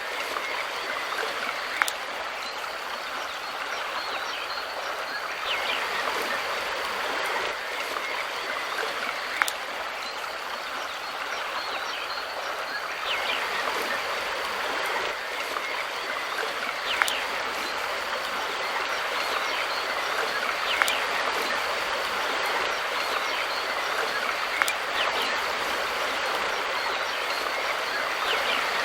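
Mountain river water rushing steadily, with a few faint short bird calls and an occasional sharp click.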